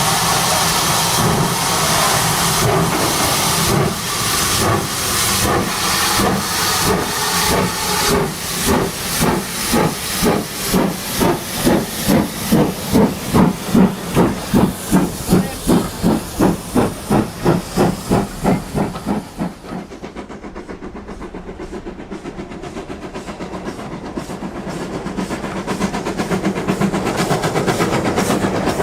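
Steam locomotive chuffing with steam hiss, the exhaust beats quickening from about two to nearly three a second and growing louder as the train pulls away. About twenty seconds in the chuffing stops, leaving a quieter rolling rumble that swells toward the end.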